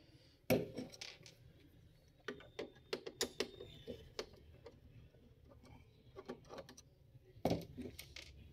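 Screwdriver and hands working the stand screw of a Dell 22-inch LED monitor: scattered small clicks and knocks of metal on plastic, with a sharper knock about half a second in, a run of clicks in the middle, and another knock near the end.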